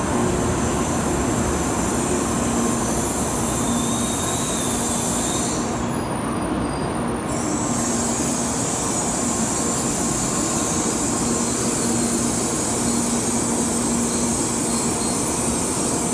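Tokaido Shinkansen train pulling slowly into the platform: a steady, even train noise with faint steady tones in it.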